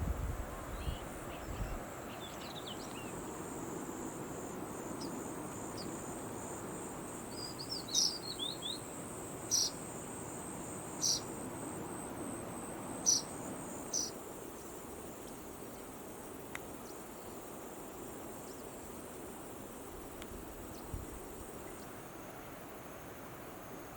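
An insect trills steadily and high-pitched, fading near the end. A handful of short bird chirps sound over it midway.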